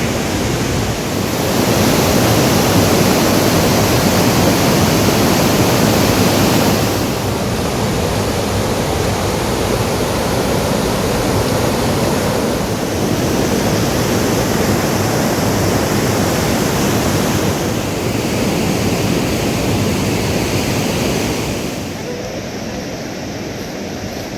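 Loud, steady rushing of water. It swells from about one to seven seconds in, then eases, and drops again near the end.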